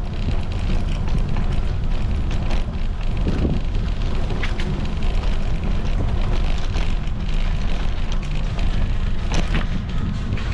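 Wind buffeting a GoPro's microphone during a bike ride: a loud, steady low rumble, with a few sharp clicks or knocks from the bike, around two and a half seconds, four and a half seconds and near the end.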